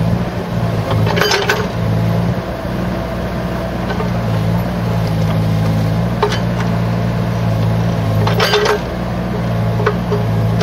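Bobcat 334G mini excavator's diesel engine running steadily, with short bursts of metallic clanking twice, about a second in and again about eight seconds in.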